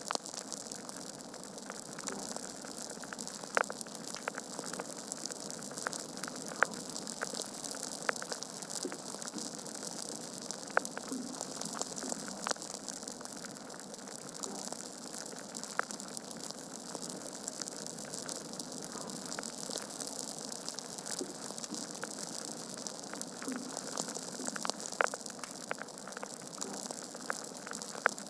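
Wood fire burning in a fireplace: a steady hiss of flame with constant small crackles and a few louder pops of the logs.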